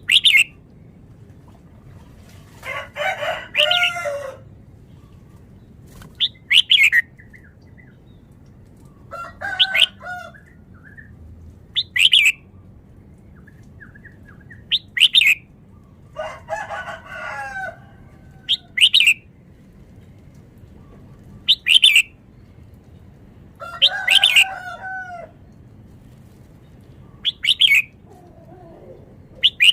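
Red-whiskered bulbul calling in short, sharp, loud notes about every three seconds, with four longer, lower warbling phrases in between.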